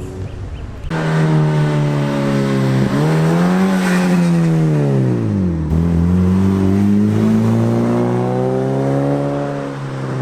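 A car engine starts loudly and abruptly about a second in. Its pitch climbs slowly, falls sharply about five seconds in, then holds low and steady.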